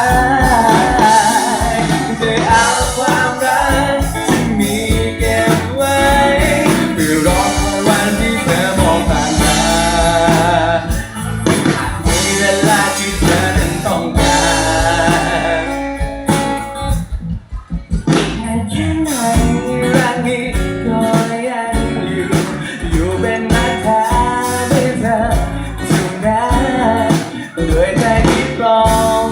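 Band music from a Thai pop love ballad, with a short drop in level about two-thirds of the way through.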